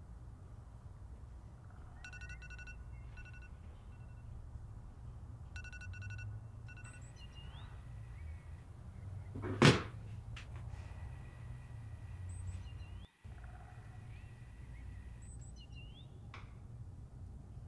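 Birds chirping in short rising calls, with two brief rapid trills near the start, over a low steady hum. One loud thunk about halfway through.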